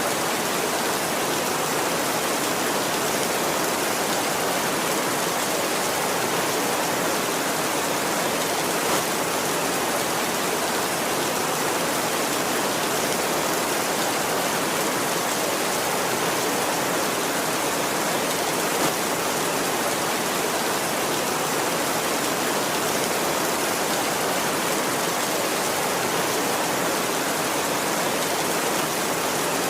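Heavy rain pouring steadily on a tin roof, a dense even hiss with no thunder.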